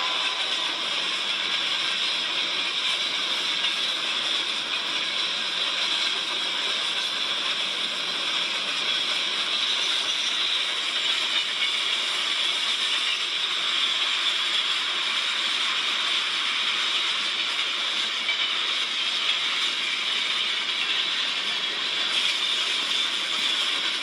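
Freight cars of a passing freight train rolling by, steel wheels clicking on the tracks through the junction, heard as a steady rushing noise.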